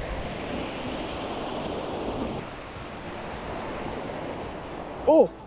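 Ocean surf washing against the shore, with some wind on the microphone. Near the end a short voice cry breaks in.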